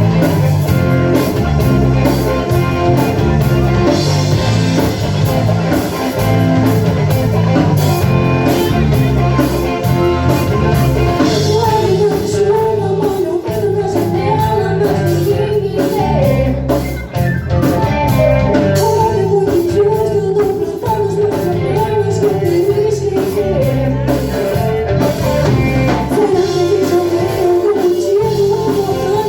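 Rock band playing live: a steady drum and bass beat with guitar, and a wavering lead melody coming in about twelve seconds in.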